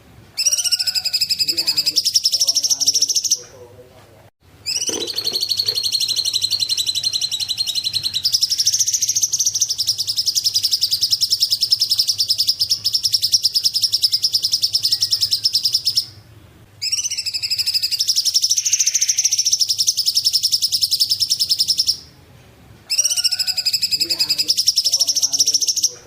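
Cungkok bird singing: long runs of very rapid, high chattering trills, broken by three short pauses.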